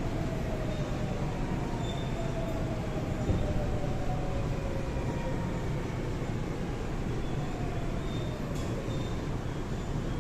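Daewoo–Alstom GTO-thyristor VVVF inverter whine of a Seoul Line 4 4000-series train over the running rumble of the cars. Several tones fall steadily in pitch as the train slows for the next station. A single knock comes about three seconds in.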